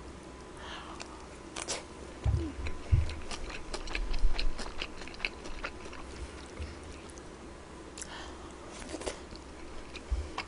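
A person chewing mouthfuls of kimchi fried rice with pork belly close to the microphone: many small wet clicks and crunches, with two low thumps a little after two and three seconds in.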